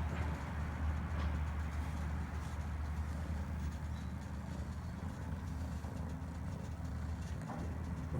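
Cat purring: a steady low rumble with a brief break about seven and a half seconds in.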